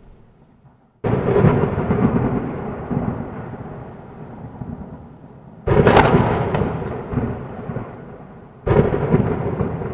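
Thunder: three sudden cracks, about a second in, past the middle and near the end, each rolling away into a rumble over a few seconds.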